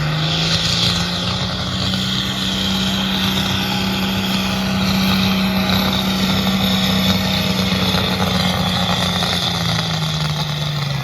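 Pulling tractor's engine held at high revs under load: the pitch climbs in the first second, holds steady and high, then drops near the end.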